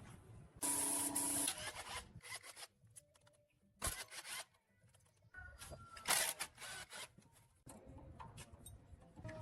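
Intermittent workshop work noises: short bursts of hissing or scraping, separated by clicks and knocks of tools and parts being handled.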